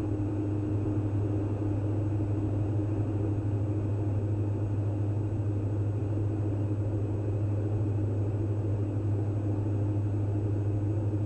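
Steady in-flight cockpit drone of a Diamond DA42 NG's two turbo-diesel engines and propellers: a constant low hum with a steady higher tone above it.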